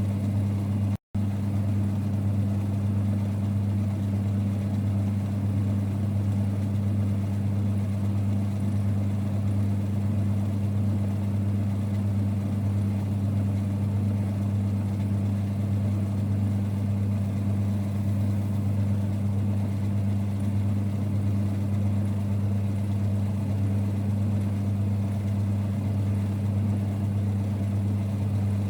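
1946 Boxford lathe running steadily with a low rumble and hum. The sound cuts out for an instant about a second in.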